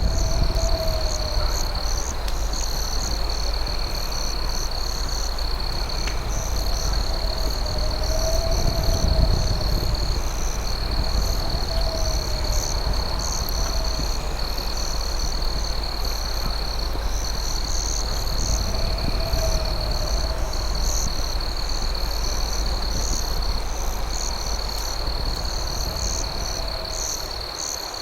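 Night insect chorus: a steady high-pitched cricket trill with rapid pulsing chirps above it. A lower warbling call repeats every few seconds, over a steady low rumble.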